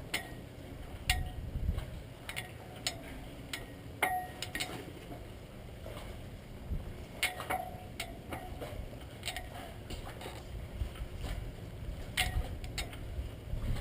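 Light clinks and knocks aboard a boat at irregular intervals, each with a brief ringing tone, over a low steady rumble of wind and water.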